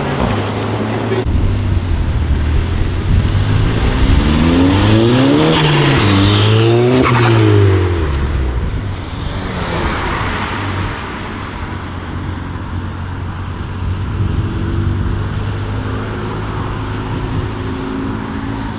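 Modified car engine revving hard, its pitch climbing and falling twice about four to eight seconds in, over the steady rumble of an idling engine. It then settles back to a quieter steady engine sound.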